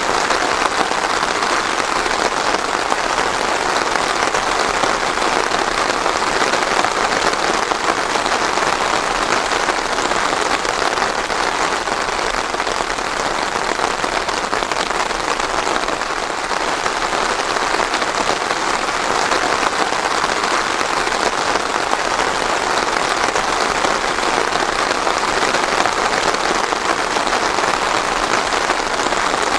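Steady rain falling, a dense even patter without thunder.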